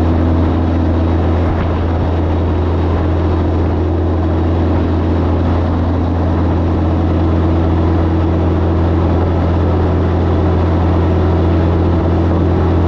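Diesel semi-truck running down the road, heard from inside the cab: a steady low engine drone with road noise that holds even throughout.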